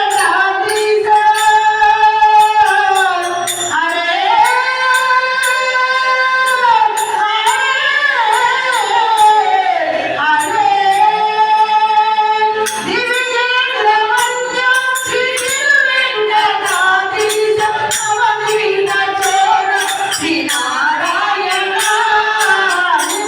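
Telugu devotional bhajan music: a melody carried in long, gliding held notes over jingling hand percussion that keeps a steady beat.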